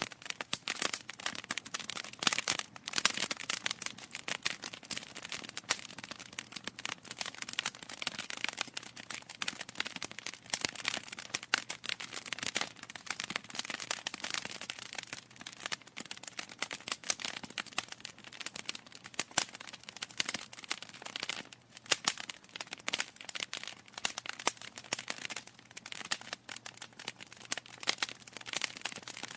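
Wood fire crackling in a fireplace: a constant stream of small irregular pops and snaps over a soft hiss, with louder pops now and then.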